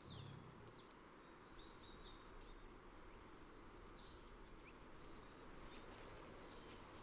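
Faint outdoor ambience with high, thin bird calls: short chirps and a few longer whistles, some sliding in pitch, coming every second or so.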